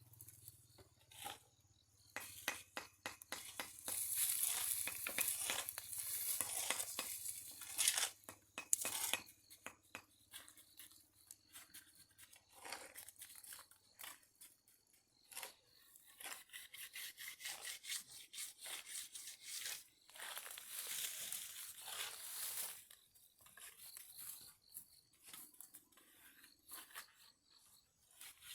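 Rasping, scraping strokes with many sharp clicks, coming in stretches of a few seconds with quieter gaps between.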